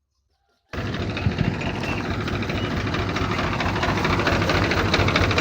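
A radio-controlled toy construction machine's motor running steadily with a dense, fast rattle over a low hum, cutting in abruptly under a second in.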